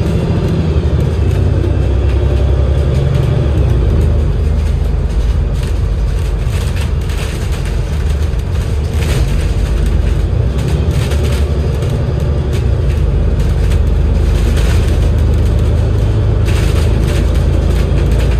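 Double-decker bus under way, its Cummins L9E diesel engine and Voith DIWA automatic gearbox running with a steady low drone, mixed with road noise and cabin rattles.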